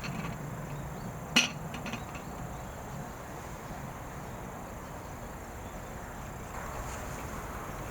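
Steady high trilling of insects such as crickets, with one sharp crack about a second and a half in.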